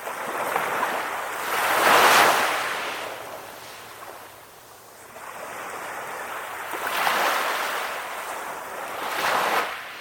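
Calm ocean waves, coming in as two swells of rushing water that rise and fall away: the first and loudest peaks about two seconds in, the second builds more slowly and lasts from about six to nine and a half seconds.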